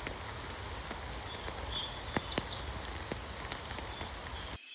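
A small songbird singing a quick run of high chirping notes, loudest in the middle, over a low outdoor rumble of wind on the microphone, with a few sharp clicks. The background rumble cuts off suddenly near the end.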